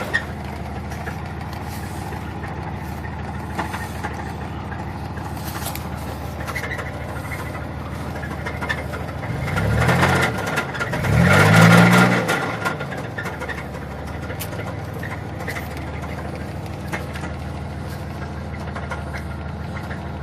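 1994 Buick Park Avenue's 3.8-litre V6 idling, revved twice briefly about ten and twelve seconds in, the second rev higher. It has a knock that the owner takes for a rod knock.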